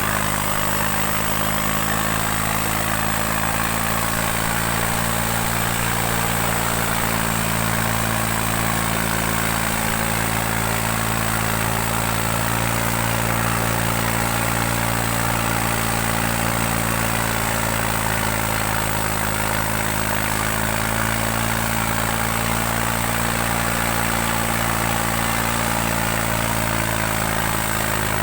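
New Holland 3630 tractor's three-cylinder diesel engine running steadily at an even speed, under load pulling two harrows.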